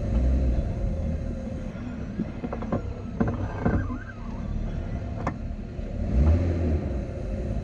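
Jeep Wrangler JL running at low speed under a steady low rumble, with a cluster of sharp clicks about two to four seconds in and another just past five seconds. This is the clicking the owner hears when turning the wheels or creeping forward or in reverse, and he is unsure whether it comes from the front or the rear.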